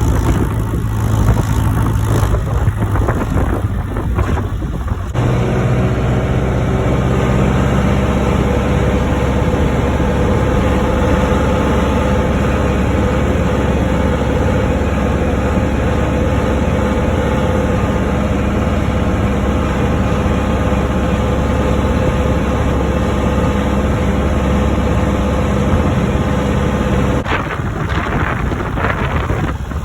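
John Deere 6420 tractor's diesel engine running steadily. Its note shifts about five seconds in and changes again near the end.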